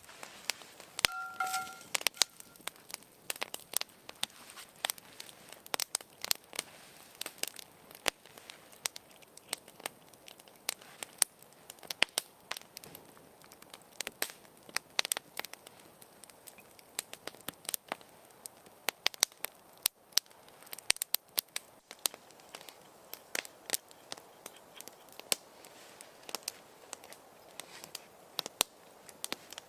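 Wood fire crackling, with many irregular sharp pops and snaps; a short steady tone sounds briefly about a second in.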